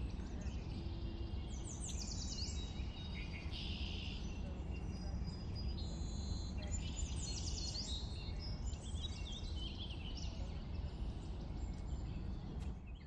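Birds chirping in short, high, quick trills over a steady low outdoor rumble.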